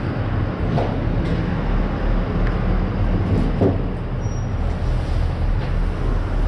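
A steady, loud low mechanical drone, like an engine running, with a few short knocks and clatters over it.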